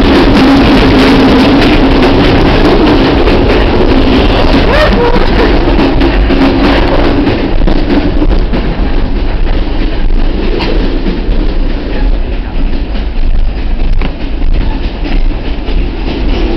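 Passenger train running on the rails, heard from inside the carriage: a loud, steady rumble and rattle of the wheels and car body with scattered clicks. It is heaviest at first and becomes more uneven and a little quieter about halfway through.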